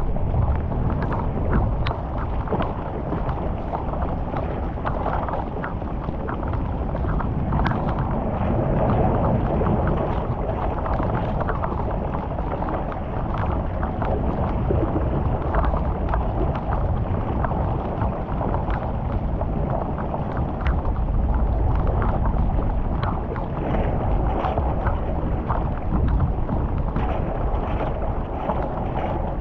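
Steady rushing and splashing of flowing water, with many small irregular splashes and gurgles throughout.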